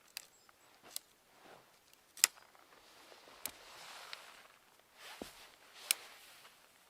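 A series of about six sharp, irregular cracks or pops, the loudest a little past two seconds in, with soft rustling between them.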